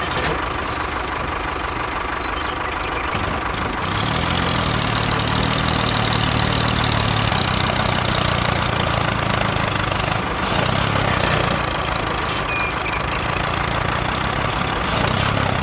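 Vehicle engine idling steadily, its deeper engine note growing stronger about four seconds in and easing off around eleven seconds.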